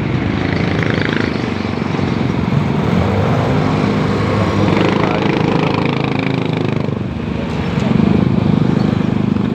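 Heavy street traffic: vehicle engines, motorcycles among them, running steadily close by.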